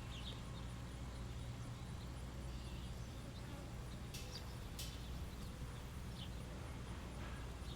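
Songbirds at a feeder giving a few short, high chirps, with two sharper ones about four and five seconds in, over a steady low background rumble.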